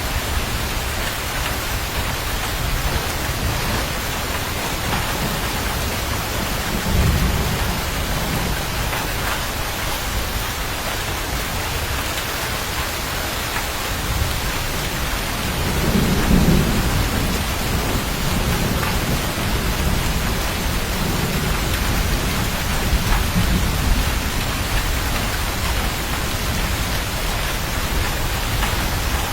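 Steady heavy rain hiss with rolls of thunder rumbling underneath, the strongest rumble about halfway through and smaller ones about a quarter of the way in and later on.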